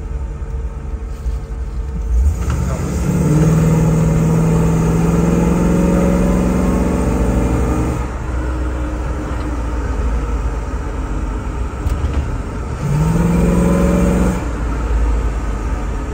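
LS3 6.2-litre V8 engine running. Its note climbs and holds for about five seconds, drops back to a rumble, then climbs again briefly near the end.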